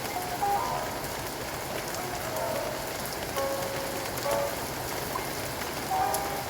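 Steady rain falling on a surface, an even hiss with the patter of drops, while short, soft melody notes sound over it now and then.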